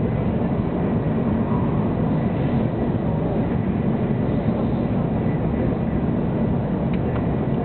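Steady low rumble and rush of a 700 series Shinkansen running at speed, heard from inside the passenger cabin, with a faint steady high tone over it.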